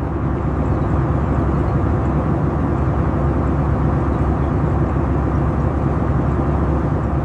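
A steady, loud, low-pitched rushing noise with no clear tone or rhythm, such as heavy water or wind, or an engine heard as a continuous rumble.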